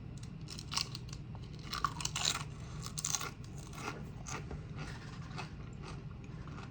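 Close-up chewing and crunching of tortilla chips: irregular crisp crunches, loudest and densest a couple of seconds in.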